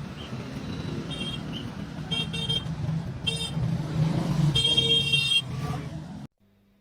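Vehicle horn honking: several short toots and one longer honk near the end, over a steady rumble of traffic. The sound cuts off abruptly about six seconds in.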